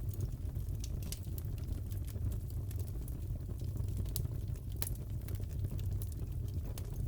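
Wood fire crackling in a fireplace: a steady low rumble with scattered sharp snaps and pops.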